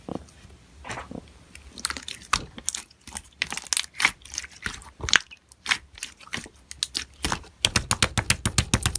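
Slime being squeezed and pressed by hand, giving irregular sharp crackling clicks and pops that come thicker and faster near the end.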